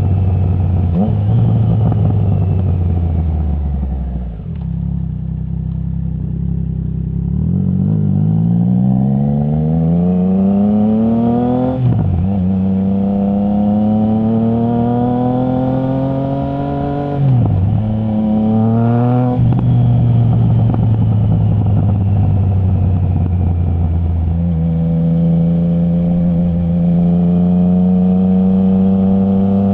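Triumph Trident 660's three-cylinder engine through a straight-through Zard full exhaust with the baffle removed, ridden hard. The revs drop to a low burble about four seconds in, then climb steadily and cut sharply for a quick upshift at about twelve seconds. Further quick gear changes come around seventeen to nineteen seconds before the engine settles into steady running.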